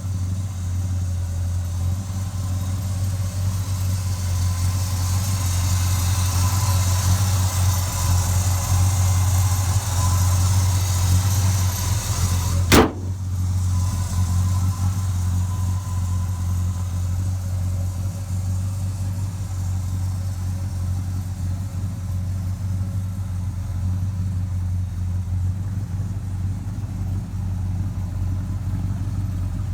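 Truck engine idling steadily with an even low hum. A single sharp knock about halfway through.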